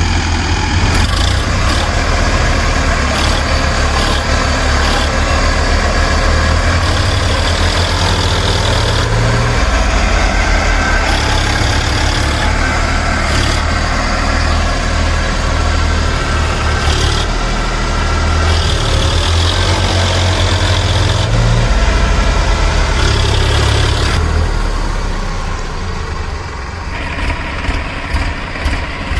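A vehicle engine running with a steady low drone, its sound shifting abruptly several times. Near the end it drops in level and breaks into short pulses.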